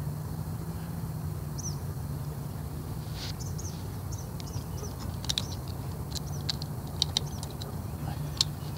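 Small birds chirping, with a quick run of short, sharp chirps and clicks in the second half, over a steady low hum.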